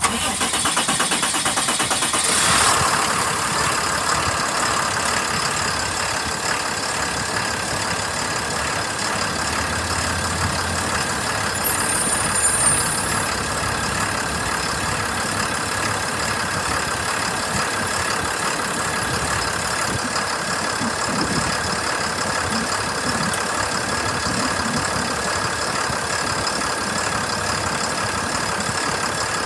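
Cummins ISB6.7 inline-six diesel engine running, a little louder for the first couple of seconds and then settling to a steady idle with a thin, steady whine over it.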